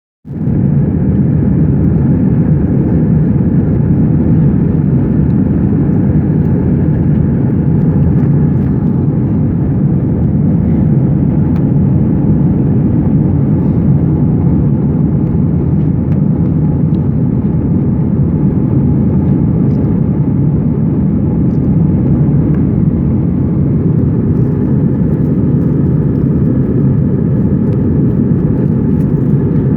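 Steady, even engine and airflow noise inside an airplane cabin in flight, mostly low in pitch.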